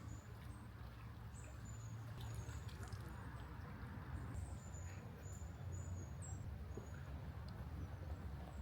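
Faint forest ambience: short, high, thin chirps come every second or so over a low, steady rumble, with a few small clicks.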